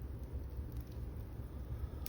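Wood fire burning in a fireplace: a steady low rumble of the flames with faint occasional crackles.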